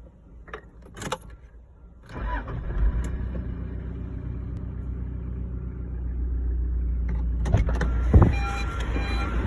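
Toyota Hilux Surf LN130's diesel engine starting from cold: a few sharp clicks, then about two seconds in it fires and settles into a steady idle. A sharp knock stands out near the end.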